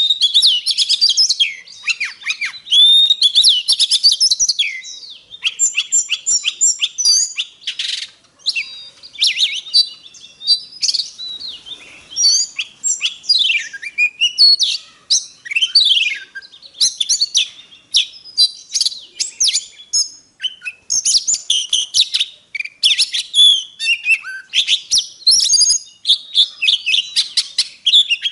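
Oriental magpie-robin singing a long, varied song: rapid whistles, rising and falling slides, trills and harsher rasping notes, in phrases separated by brief pauses.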